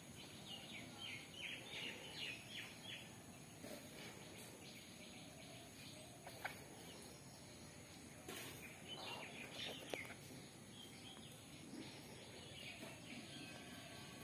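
Faint bird chirping in two short bouts, the first near the start and the second about halfway through, with a couple of light clicks between, over a faint outdoor background.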